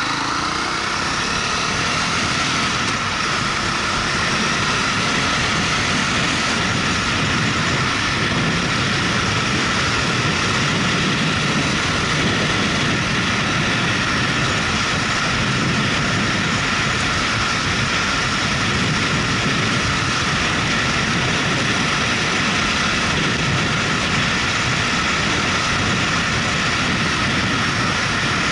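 Motorcycle under way: its engine note rises at the very start as it accelerates, then settles into a steady drone of engine and wind noise at cruising speed.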